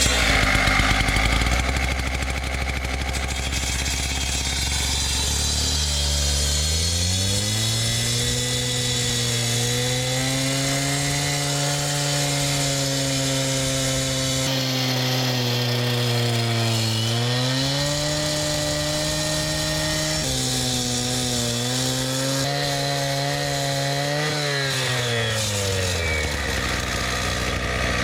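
Skid steer engine idling low, then throttled up about six seconds in and held at high revs, with a brief dip and recovery partway through, before dropping back to idle near the end.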